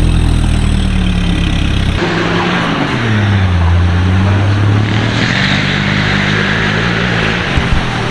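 4x4 off-road vehicle engine running under load, its pitch dipping and rising again as the throttle changes, with an abrupt change in the sound about two seconds in.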